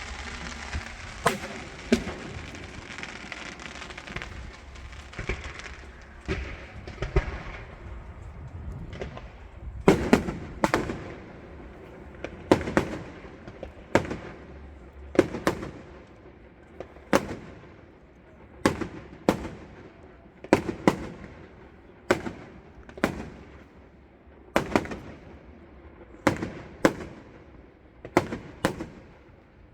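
Firework display: aerial shells bursting in a steady run of sharp bangs, a few at first and then roughly one or two a second, each trailing off in a short echo.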